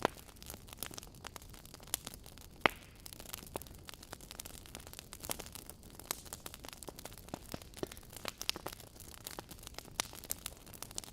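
Wood fire burning in a fireplace: logs crackling and popping at irregular intervals over a low hiss, with one sharp loud pop about two and a half seconds in.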